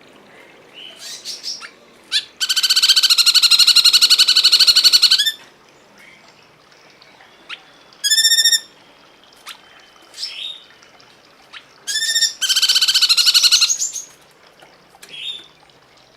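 Bird song of the cungkok: a loud, very fast rattling trill of about three seconds, then short sharp calls and single notes, and a second, shorter rattling trill about twelve seconds in.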